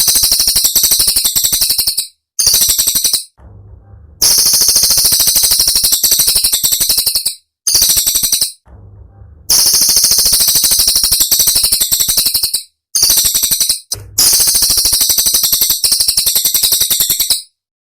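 Cililin bird song: phrases of very rapid, high-pitched, sharp repeated notes, each lasting one to five seconds and cutting off abruptly, with short gaps between them.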